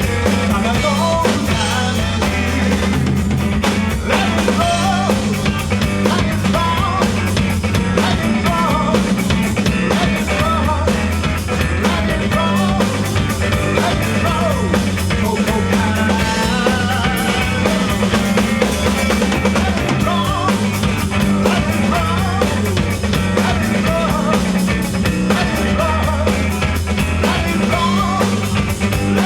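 A rock band playing live, with drum kit, electric guitar and singing.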